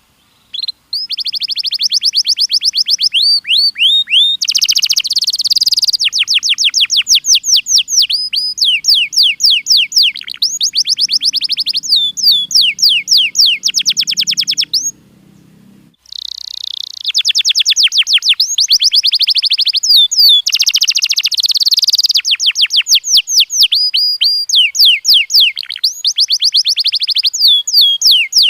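Domestic canary singing a long, fast song of rapid trills and repeated whistled sweeps, broken by a short pause about halfway through.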